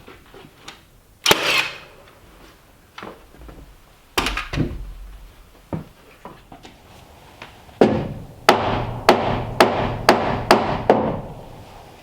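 Sharp strikes on timber: a few scattered knocks, then a quick run of about eight evenly spaced blows, roughly two a second, near the end.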